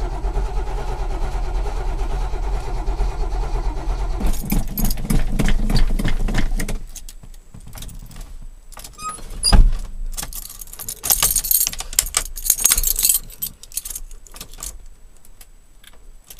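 The 1987 GMC 2500's 350 V8 turning over on the starter, pulsing harder after about four seconds, then cutting out abruptly about seven seconds in. A sharp click follows, then keys jangling as the key is worked. The starter has quit, which the owner puts down to a loose battery connection.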